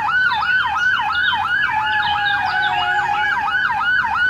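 Ambulance siren in a fast yelp, its pitch swooping down and back up about three times a second, then cutting off suddenly.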